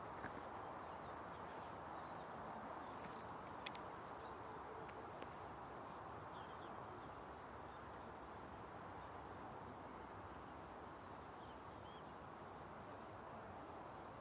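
Faint woodland ambience: a steady soft hiss, with a few sharp isolated knocks in the first four seconds and faint high chirps now and then.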